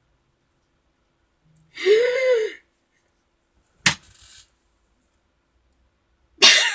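A woman's short wordless vocal reaction, one pitched cry that rises and falls, about two seconds in, then a single sharp smack about four seconds in. Otherwise near silence.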